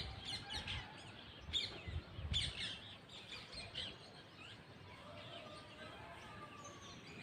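Parrots calling with short, sharp chirps and screeches, in dense bursts over the first three seconds and fainter after that, with a few low thumps among the first calls.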